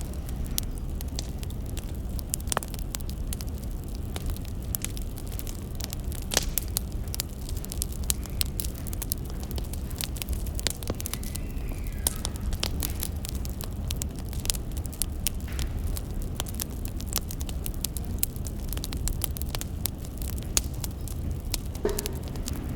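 Burning firewood crackling, with many small, irregular sharp pops over a low steady rumble.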